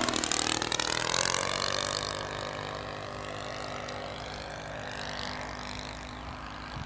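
An engine passing close by: its tone is loud for about the first two seconds, then fades and runs on more quietly.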